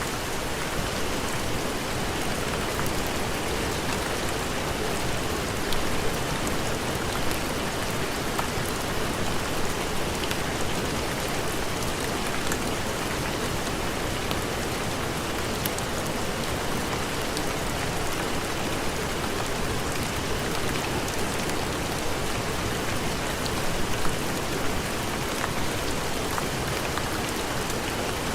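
Steady heavy rain: an even hiss with a few sharp ticks now and then.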